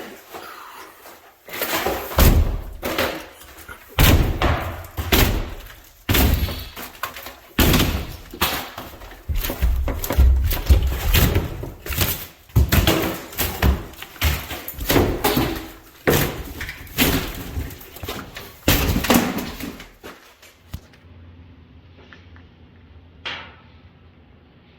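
Drywall being knocked in with a hammer and torn off the wall studs: a rapid, irregular run of heavy thuds, cracks and crumbling of gypsum board that stops about 20 seconds in, followed by one sharp click.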